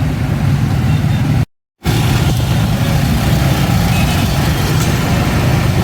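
Road traffic held up in a jam: a steady, loud low rumble of vehicle engines. The audio cuts out completely for a moment about a second and a half in.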